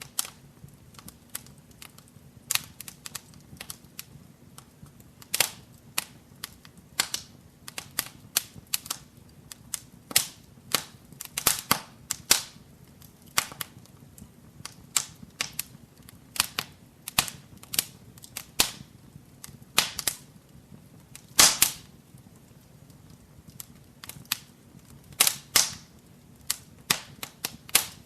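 Wood fire burning in a fireplace, crackling with irregular sharp pops and snaps, a few louder ones standing out, over a faint low rumble.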